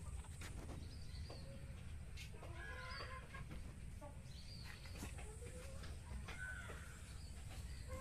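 Faint bird calls in the background: several short calls a second or two apart, over a steady low rumble.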